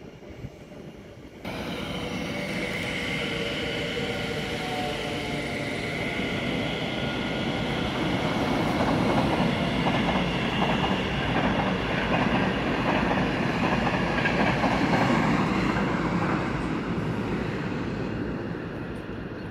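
A double-deck passenger train passing close by at speed. It starts suddenly about a second and a half in as a steady rumble with a whining tone, turns into a rhythmic clatter of wheels over rail joints in the middle, and eases off near the end.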